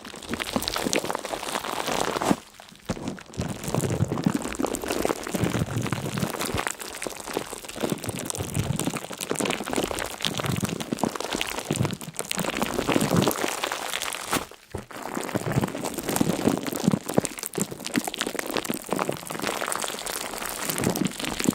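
Dense, continuous crackling and crinkling, made of many fine crisp clicks, with two brief pauses.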